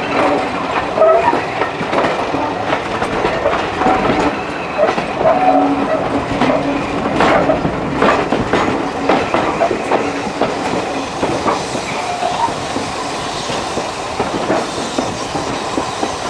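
Passenger train coaches rolling slowly over rail joints and pointwork, the wheels giving irregular clicks and knocks over a steady rumble, with a short held tone in the middle.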